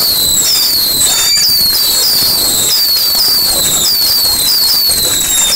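A 4000-shot firework barrage cake firing continuously. A rapid stream of shrill whistles, each falling in pitch, comes about three a second over steady crackling and bangs.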